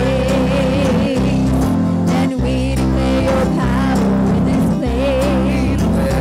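Live gospel worship music: a church band holds sustained chords that change every second or so, with a wavering sung or hummed line over them and no clear words.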